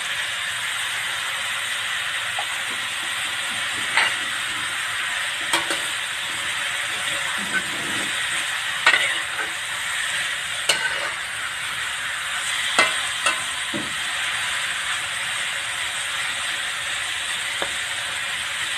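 Chopped banana heart and longganisa frying in a metal wok: a steady sizzle. A spatula stirs the food, scraping and clicking against the pan a few times.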